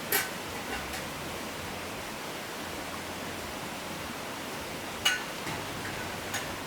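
Steady rush of flowing water, with a few sharp clinks; the loudest come just after the start and about five seconds in.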